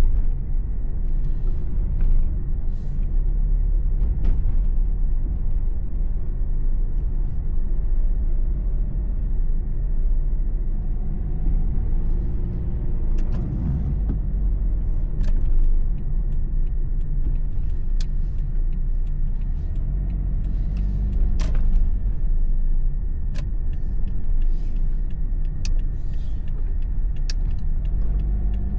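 Car engine and tyre noise heard from inside the cabin while driving: a steady low rumble, with the engine note shifting briefly about halfway through and scattered light clicks in the second half.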